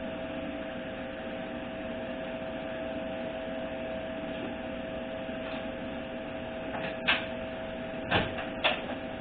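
Steady background hum holding two even tones, with three or four sharp clacks from about seven seconds in, as of a heavy tool such as a torque wrench being picked up and handled.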